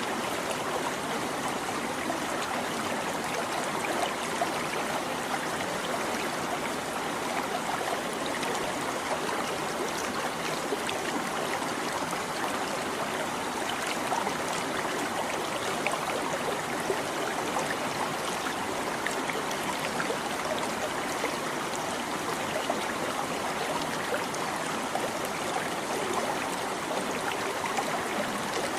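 A shallow stream babbling steadily over stones, a constant rush of running water with small trickles and splashes.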